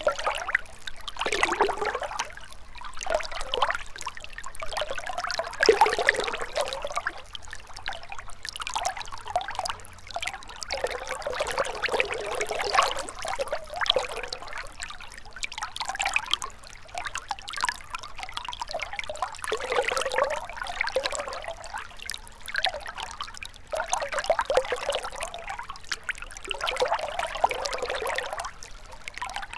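Shallow river water trickling and burbling over stones, a continuous splashing that swells and eases every second or two.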